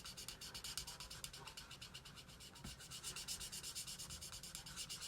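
Alcohol-ink blending marker rubbing on cardstock in quick, even back-and-forth strokes, several a second, while colouring in a stamped image.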